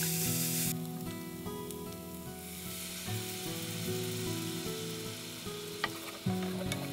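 A stir-fry sizzling in a hot wok as it is tossed with a wooden spatula. The loud sizzle cuts off abruptly about a second in and a softer sizzle builds again as the spicy sauce goes in, with a few light clicks from the spatula. Background music plays throughout.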